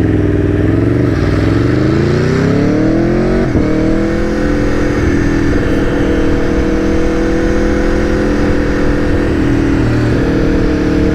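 Aprilia Tuono V4 1100's V4 engine under way. The revs climb for a couple of seconds and break briefly in a quick upshift about three and a half seconds in, then the engine holds a steady pitch and starts to rise again near the end.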